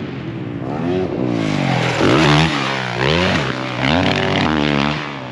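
Motocross dirt bike engines revving up and down repeatedly, throttle opening and closing about once a second as the bikes ride through a jump section, with more than one engine overlapping.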